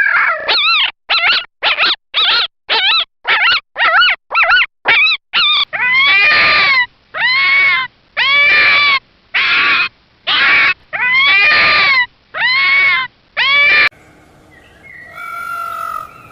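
A dog yipping in quick short cries, two or three a second, then giving longer rising-and-falling whining yelps about every second and a half.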